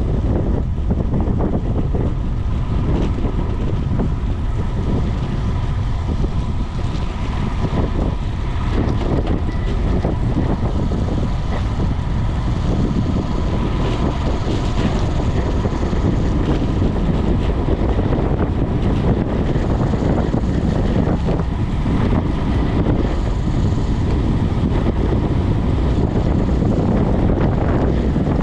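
Loud, steady wind noise buffeting the microphone of a camera carried on a moving bicycle.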